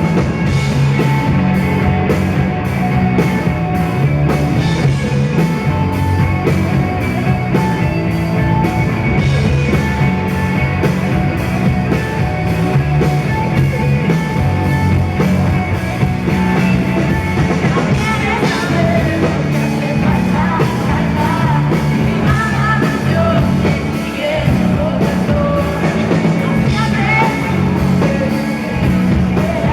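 Live rock band playing a loud, steady song with a regular drum beat, with a woman singing over it, most clearly in the second half.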